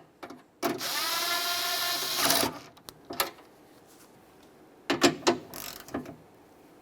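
Cordless drill-driver spinning up and running for about two seconds, driving the door handle's mounting bolts snug. After it come a few sharp clicks of hand tools on the bolts.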